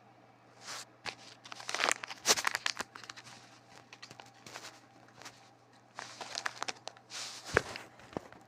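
Irregular crinkling and rustling in a small room, in short clusters with sharp clicks among them.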